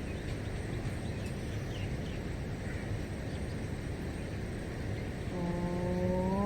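Steady outdoor ambience with a few faint bird chirps in the breath between two chanted 'Om's; about five seconds in a new long 'Om' begins, its pitch rising slightly as it settles into a steady hum.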